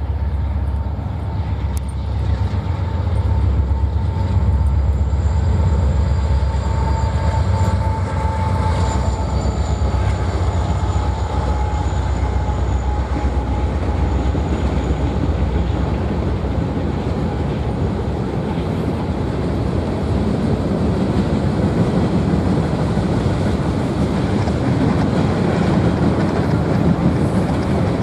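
Norfolk Southern diesel freight train passing: the trailing locomotive's low engine rumble goes by first, then tank cars and covered hoppers roll past with steady wheel-on-rail noise. A faint high ringing tone rises out of the noise about eight seconds in.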